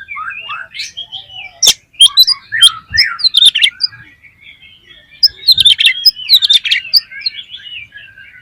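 Oriental magpie-robin (kacer) singing loudly: a varied run of whistles and chattering notes, with two bursts of rapid sharp notes, one about two seconds in and another after about five seconds.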